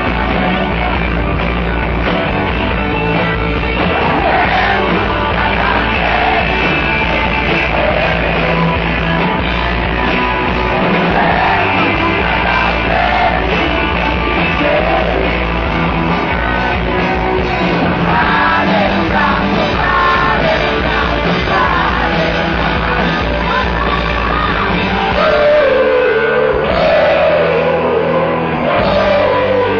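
Rock song with a singing voice over guitars, bass and drums.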